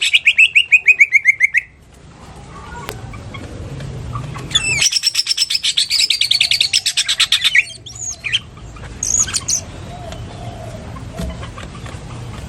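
Green leafbird (cucak ijo) singing a long lovebird-style 'ngekek' chatter, a very fast run of repeated sharp notes. The first run falls in pitch and ends about a second and a half in. A second, longer run comes about four seconds later and lasts about three seconds, followed by a few short calls.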